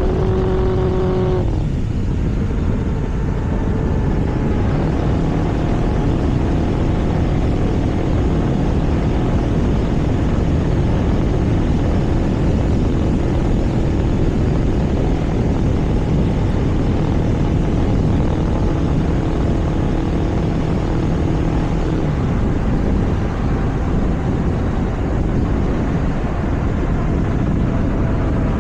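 Vehicle engine running at cruising speed, with heavy wind rush over the microphone. About a second and a half in, the engine's strong steady note drops away, as when easing off the throttle or changing gear.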